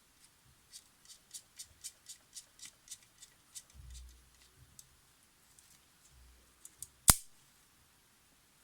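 Light mechanical clicks from handling a Polaroid SX-70 camera's small parts, a run of about four a second for a couple of seconds. They are followed by a single sharp, loud click near the end.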